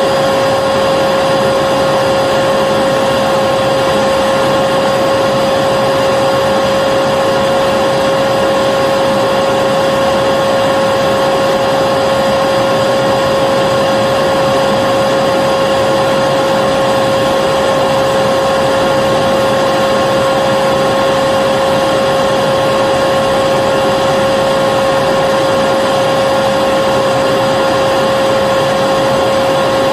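Vacuum cleaner running continuously: a loud, unchanging rushing noise with a steady high whine from the motor.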